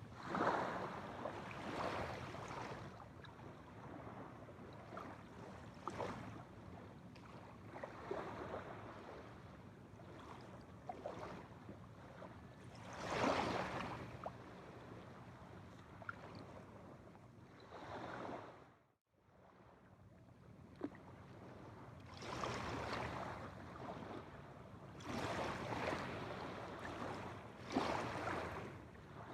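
Waves washing onto a shore, the water noise swelling and fading every several seconds. There is a brief cut-out about two-thirds of the way through.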